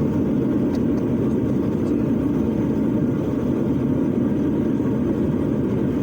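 Propeller airliner's engines running at a steady drone, heard from inside the passenger cabin.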